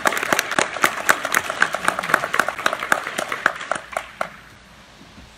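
Audience applauding: many hands clapping, thinning out and stopping about four seconds in.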